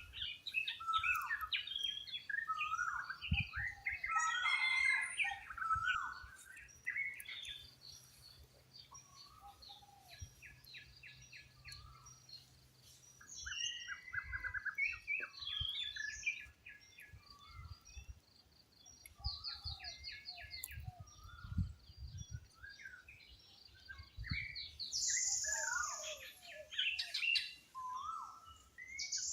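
A chorus of wild birds chirping, with many overlapping short whistled calls and several rapid dry trills. A few soft low thuds come through now and then.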